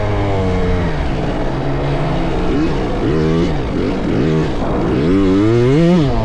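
Small dirt bike engines revving up and down on a motocross track, with several bikes overlapping in the middle. Near the end one engine revs up in a long rising note, then drops off the throttle.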